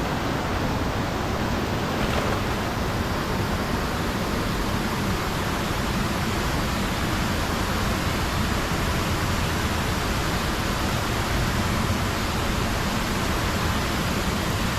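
Steady rush of floodwater pouring over a spillway, an even roar with no breaks.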